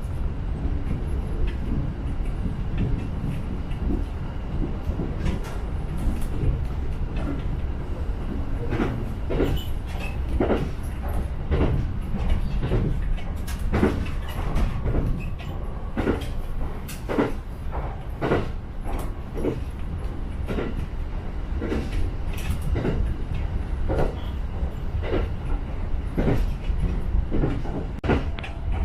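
Shinano Railway SR1 series electric train running, heard from inside the passenger cabin: a steady low rumble with sharp wheel clacks over rail joints, which start coming often, in pairs and groups, from partway through.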